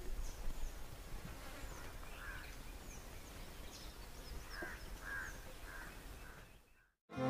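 Faint outdoor ambience with scattered short bird chirps, some high and falling in pitch. The sound fades out to silence shortly before the end.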